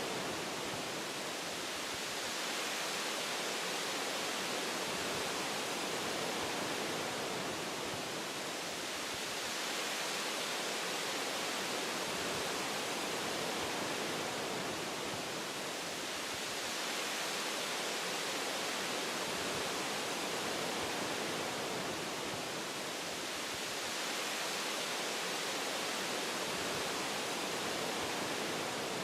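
Wind blowing through forest tree branches: a steady rushing hiss that swells and eases a few times.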